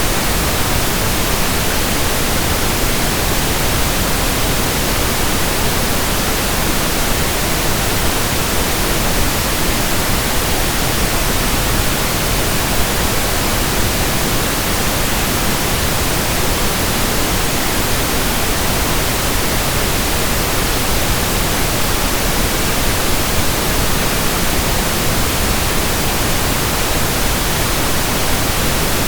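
Steady pink noise: an even, unchanging hiss across the whole range.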